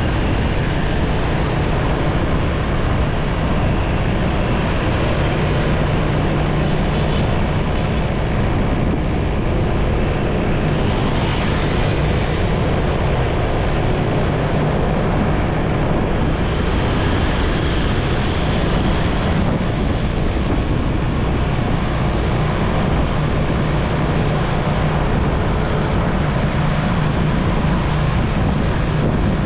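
Motorcycle on the move: a steady low engine hum under wind and road noise, holding an even level.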